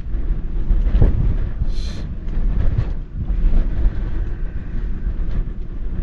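Strong wind rumbling and buffeting, a heavy steady low roar with a thump about a second in.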